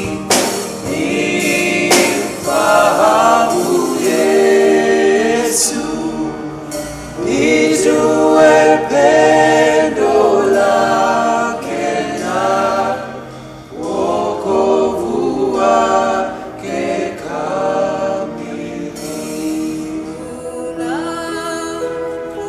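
Choir singing a gospel worship song in harmony, with sharp percussive hits near the start.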